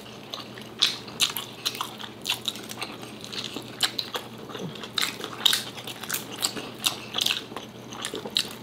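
Close-miked chewing and biting of food by two people eating with their hands: a run of irregular short wet smacks and clicks from their mouths.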